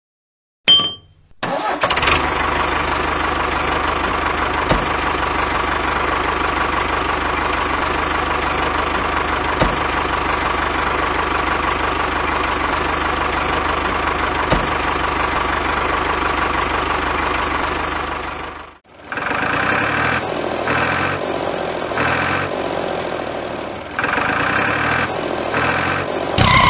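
A small vehicle engine starts and runs steadily for a long stretch, with a constant hum in it. After a brief break it comes back as a choppier engine sound in short sections.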